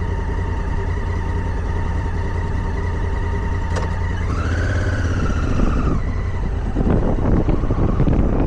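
Motorcycle engine running steadily under way on a dirt road, its pitch rising and falling briefly about halfway through. Near the end a rougher, crackling noise joins the engine.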